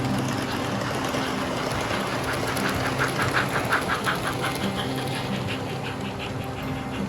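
Sound-fitted OO gauge model train running, with a steady low hum and a rhythmic pulsing of about five beats a second that swells up about two seconds in and fades away near the end.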